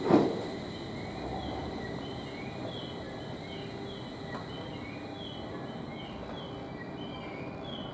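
A JR 701 series electric train standing at the platform: a short loud knock just after the start, then a steady low hum with a thin high whine. Over it, short high chirps repeat about twice a second from about a second in.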